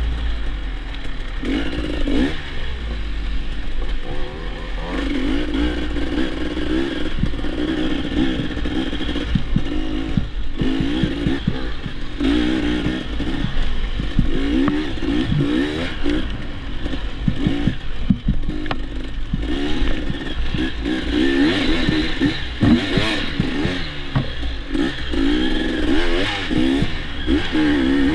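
Dirt bike engine revving up and down again and again while being ridden, with a steady low wind rumble on the microphone and scattered clattering knocks from the bike over rough ground.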